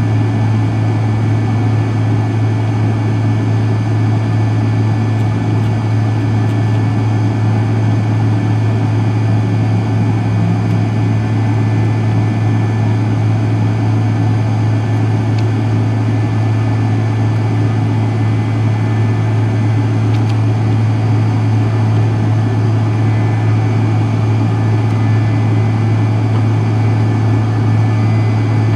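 Cabin noise of a McDonnell Douglas MD-83's rear-mounted Pratt & Whitney JT8D turbofans, heard from a seat near the tail: a loud, steady low drone with fixed whining tones above it.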